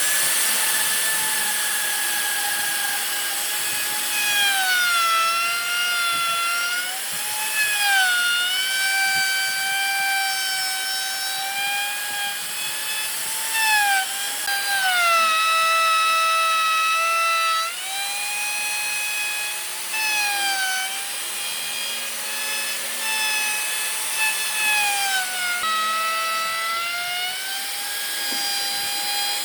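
Electric hand power tool working wood, its motor whining and dipping in pitch again and again as it is pressed into the work, then climbing back.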